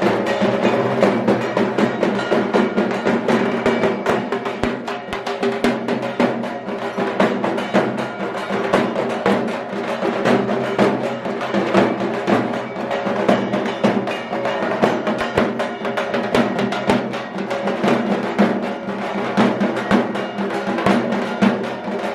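Drum-led music: fast, continuous drumming with steady pitched tones beneath it.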